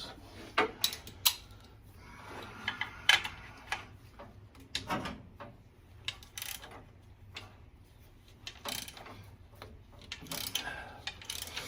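Socket ratchet clicking in short runs as bracket bolts are worked loose, with sharp clinks and knocks of metal tools against the engine.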